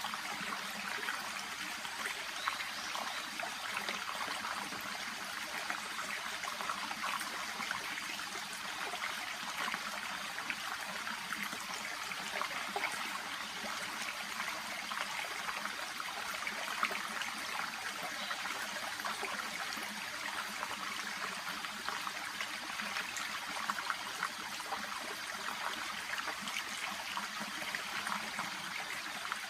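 Small shallow brook babbling steadily, water trickling and rippling with many small splashes and no change in flow.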